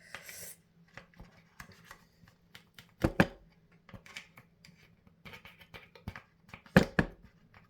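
Hands handling and scrubbing plastic washing-machine parts: a run of small clicks and scrapes, with a louder double knock about three seconds in and another near the end.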